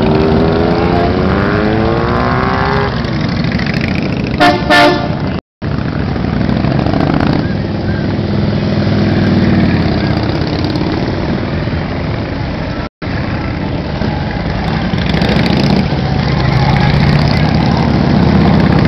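Motorcycles in a parade running and passing by, with engine pitch rising and falling as they ride past. A vehicle horn toots briefly about four and a half seconds in, and the sound drops out for an instant twice.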